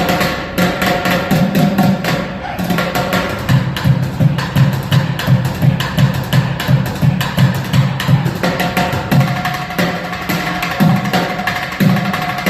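A subway busker drumming fast, dense rapid strokes, over music with a pulsing low bass part.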